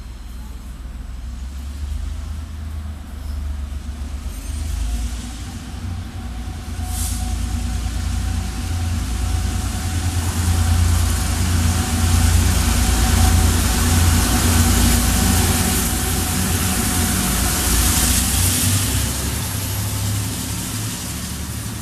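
Container freight train hauled by two Taiwan Railways diesel-electric locomotives passing: a deep engine rumble with a steady hum that grows louder as the locomotives draw near and go by, peaking about halfway through. The wagons roll along the rails behind them, and there is a short hiss about seven seconds in.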